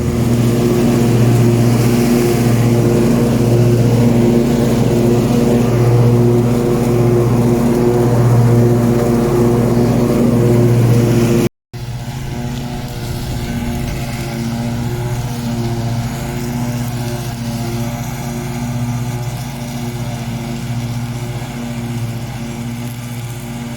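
A John Deere S160 lawn tractor's 24 hp V-twin engine running steadily as it is driven, with a slow rise and fall about once a second. A brief cut just before halfway, after which the engine is a little quieter.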